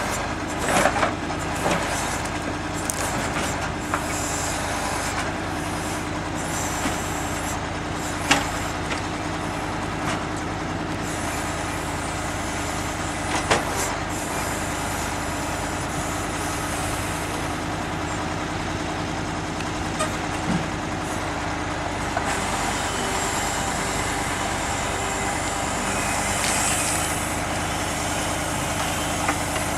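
KamAZ timber truck's diesel engine running steadily, with occasional sharp knocks of logs being loaded, the loudest about eight and thirteen seconds in.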